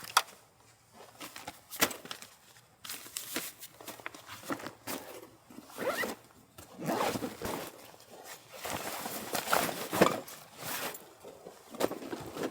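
A zipper worked in several short rasping pulls, with a few sharp clicks near the start.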